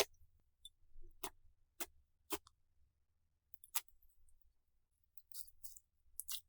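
Slime being pressed and poked, giving a handful of sharp separate clicks and pops over the first few seconds, then softer crackling near the end.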